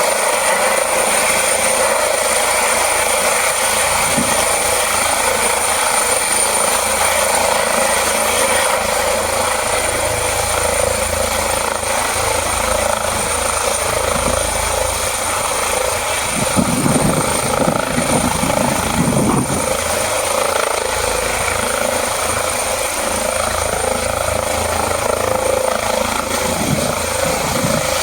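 Helicopter running steadily, a dense whirring noise with a thin, high-pitched whine. A louder low rumble swells for about three seconds a little past the middle.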